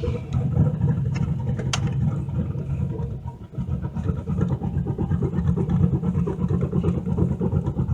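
Turbocharged LS V8 in a 1986 Chevrolet Caprice running at low revs with an uneven, pulsing rumble; it dips briefly about three and a half seconds in, and a single sharp click sounds early on. The engine is still untuned and, by the owner's account, running super rich at idle.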